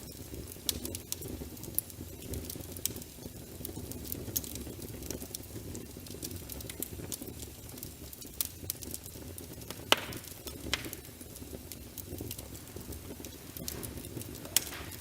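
Wood fire in a fireplace crackling over a steady low rumble, with scattered sharp pops, the loudest about ten seconds in.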